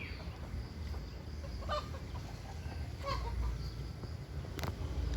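Domestic chickens clucking a few times, faint, over a low background rumble, with a single sharp click about four and a half seconds in.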